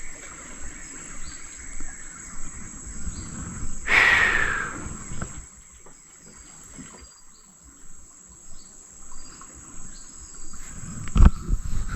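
Night insects such as crickets trilling in a steady, high, continuous tone. About four seconds in there is a brief call that falls in pitch, and near the end a single sharp knock.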